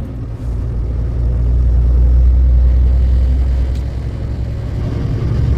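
Semi truck driving at road speed, heard from inside the cab: a steady low rumble of engine and road noise that swells a little louder about two seconds in.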